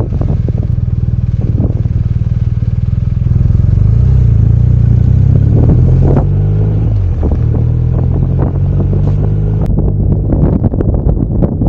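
BMW R1250RT's boxer twin engine running as the motorcycle rides along, with wind noise rushing over the microphone. The engine is a little louder for a couple of seconds midway, then its note changes and settles back.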